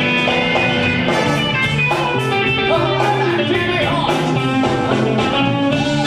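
A live band playing blues-rock, with guitar to the fore over a steady drum beat.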